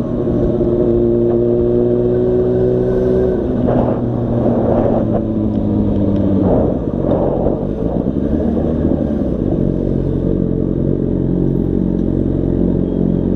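Yamaha FZ6 motorcycle's inline-four engine running, its pitch easing slowly down as the bike slows, with a few noisy swells partway through. A lower, steadier engine note follows from about eight seconds in.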